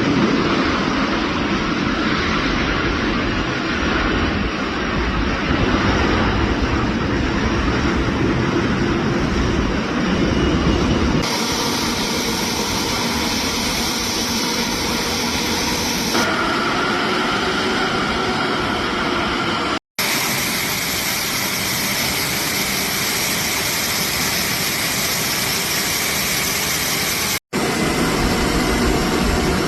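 Light propeller aircraft engines running, a steady, noisy drone heard across a string of short clips. The sound changes abruptly about a third of the way in, around halfway and about two-thirds in, each time with a short dropout, and again near the end.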